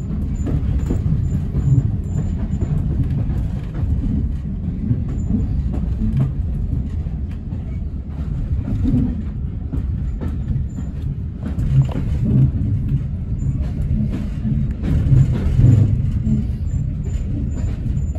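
Steam-hauled passenger train carriage running along the line, heard from on board: a steady low rumble of wheels on rails with occasional clicks and knocks.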